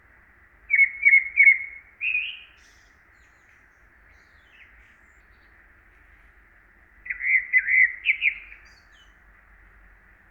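A songbird singing two short phrases of quick chirping notes, each ending on a higher note, about six seconds apart, over a faint steady background hiss.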